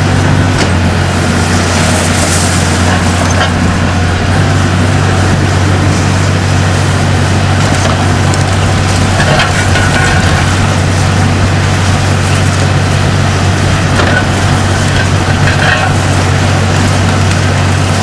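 Diesel engine of a Kiesel KMC 350-5 BTV demolition excavator running steadily, with scattered cracks and crunches of concrete being sheared and broken.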